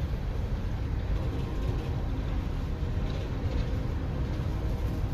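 Train running with a steady low rumble and a faint engine drone.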